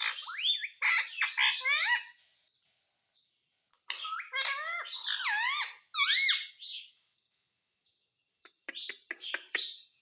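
Indian ringneck parrot vocalizing in two bursts of quick, high chirps and squawks that sweep up and down in pitch, with a pause between them. A few short clicks come near the end.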